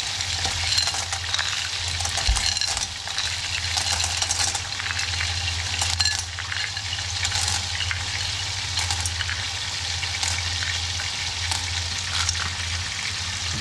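Small fish frying in oil in a pan, a steady sizzle. Through it come scattered clinks of clam shells knocking against each other and a plastic ladle as they are spooned into a pot. A steady low hum runs underneath.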